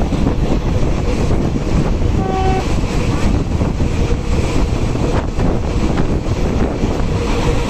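Passenger train running at speed, heard from an open coach doorway: a steady rumble of wheels on rail, with a short horn toot about two seconds in.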